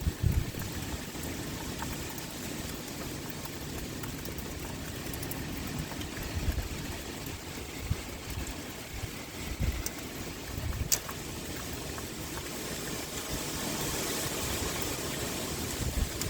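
Rain pouring steadily with wind, a constant even hiss, broken by a few brief low rumbles and one sharp tick a little after the middle.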